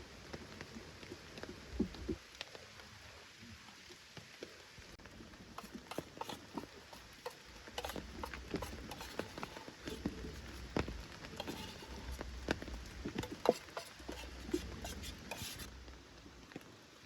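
Scattered light ticks and taps at an irregular pace, busiest from about six seconds in until near the end, over a faint hiss with occasional low rumbles.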